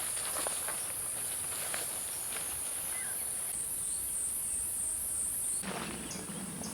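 Insects in the forest make a steady, very high-pitched shrill chorus, which pulses evenly for a couple of seconds from mid-way. Scattered light rustles and crunches, like footsteps on leaf litter, run through it, and a low steady hum comes in near the end.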